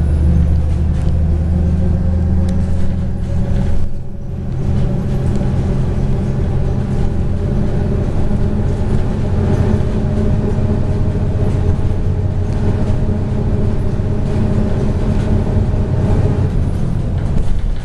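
MAZ 103.562 bus's diesel engine running under way, a steady engine drone with road noise. The engine note dips and changes briefly about four seconds in, then runs steadily again.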